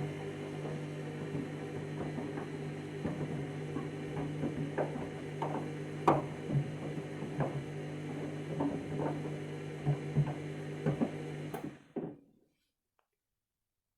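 Candy washing machine's drum motor running during the main wash: a steady hum with irregular knocks as the load tumbles in the drum, stopping about twelve seconds in as the drum pauses.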